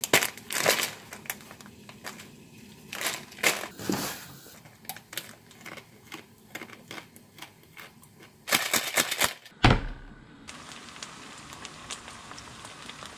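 Crisp crunching and chewing of bites of fried jjajangmyeon noodle cake, in uneven clusters of sharp crackles. About ten seconds in it cuts to a steady sizzle of noodle slabs frying in oil in a pan.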